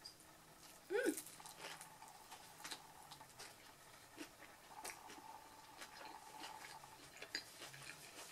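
Close-up chewing of a soft grilled veggie wrap: faint, scattered wet mouth clicks and smacks, with a brief hum about a second in.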